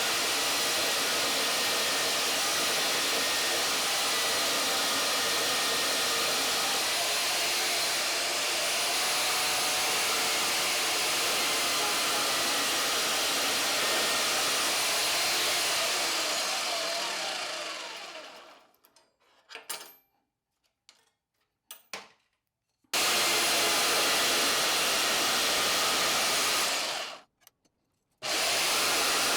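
A power tool running steadily while shaping a plane's steel sole, metal being ground with a faint whine over a steady rush. It cuts off after about eighteen seconds, leaving a few faint clicks, starts again, and stops briefly once more near the end.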